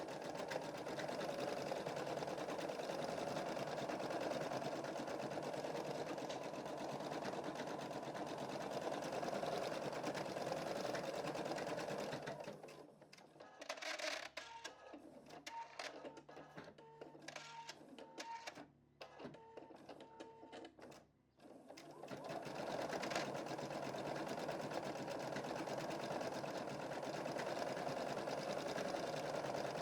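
Computerized embroidery machine stitching a design at speed, a fast steady chatter of the needle. About halfway through it stops for roughly ten seconds, with only a few faint short tones, then starts stitching again.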